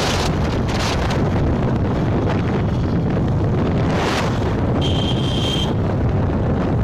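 Wind buffeting the microphone on a moving motorbike, over a steady rumble of the ride. About five seconds in, a thin high steady tone sounds for just under a second.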